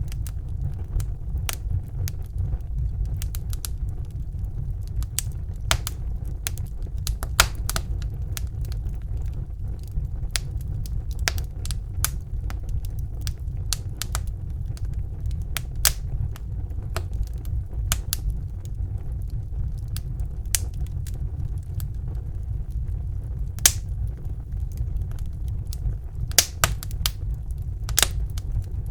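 Wood fire burning in a fireplace: irregular sharp crackles and pops over a steady low rumble of the flames, with a few louder pops near the end.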